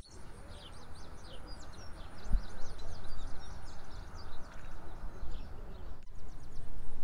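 Small birds chirping, many quick short calls, over a steady low background noise. The sound drops out briefly about six seconds in.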